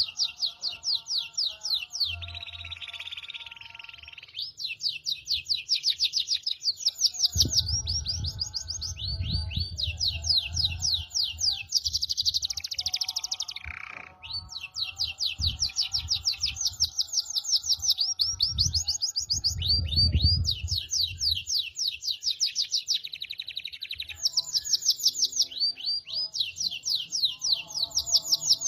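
A songbird singing long, fast trills of high repeated notes in runs of a few seconds with short breaks, over faint steady lower notes. Low muffled thumps come and go in the middle.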